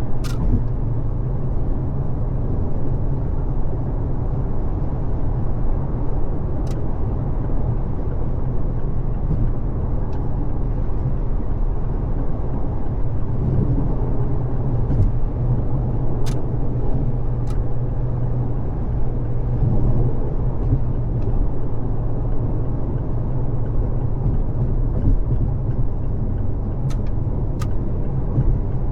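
Car cruising on a freeway: a steady rumble of tyre, road and engine noise, with a low hum. A few short, sharp clicks are scattered through it.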